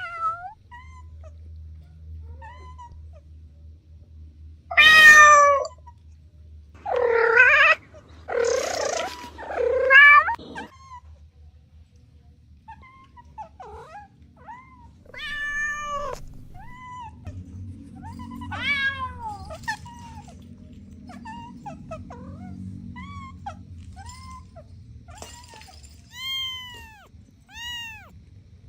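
Kittens meowing. A few loud, harsh meows come about five to ten seconds in, followed by a run of short, high mews that repeat more regularly near the end.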